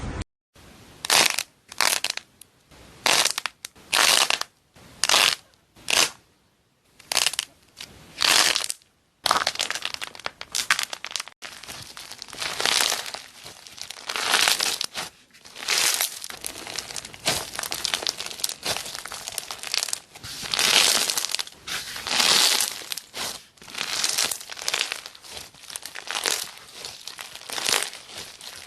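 Crisp crackling and crunching of a brittle, crunchy material being pressed and broken by hand. It comes in separate bursts about once a second at first, then turns nearly continuous with swells about eleven seconds in.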